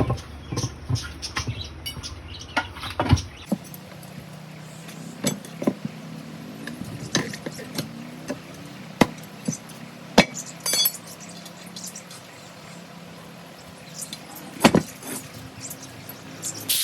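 Irregular sharp knocks and clinks: a dense run of them in the first three seconds or so, then sparser single strikes over a faint steady low hum.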